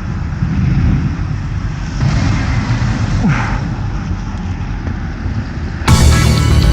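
Steady outdoor street noise with vehicle traffic and wind on the microphone. Background music cuts in suddenly near the end.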